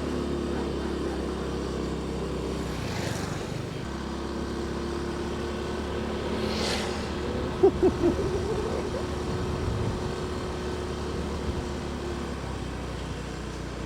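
Motorcycle engine running steadily while riding, with road and wind noise. There are two brief rushing swells about three and seven seconds in, and three short pitched blips just before eight seconds.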